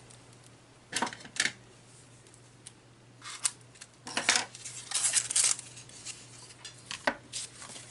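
Packaging being opened by hand to free a spool of ribbon: a few sharp clicks about a second in, then several short spells of rustling.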